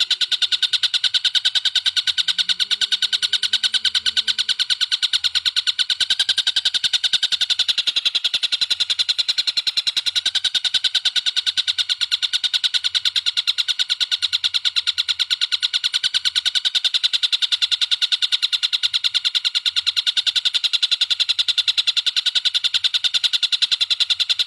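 A masteran birdsong recording: a rapid, unbroken high trill of many even chirps a second, steady in pitch and pace throughout.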